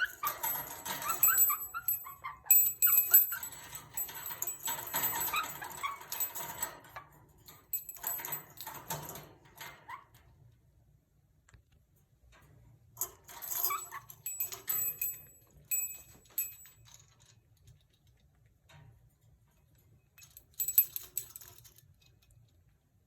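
Quaker parrot (monk parakeet) chattering and calling in bouts of quick, bending, high-pitched sounds: a long bout through the first ten seconds, another after a short pause, and a brief burst near the end, with quiet gaps between.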